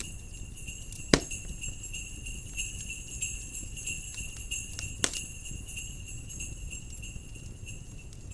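Jingle bells shaking continuously, stopping near the end, over a crackling fireplace fire with a low steady rumble. A sharp pop from the fire about a second in is the loudest sound, with a second pop about five seconds in.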